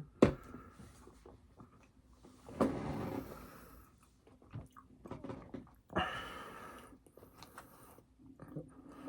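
Close-miked eating: chewing and mouth noises, with a sharp click just after the start and two longer noisy swells, about a third of the way in and about two-thirds of the way in.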